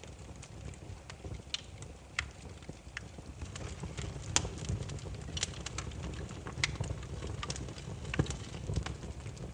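Wood fire burning with irregular crackles and pops from the burning logs over a low steady rumble of the flames.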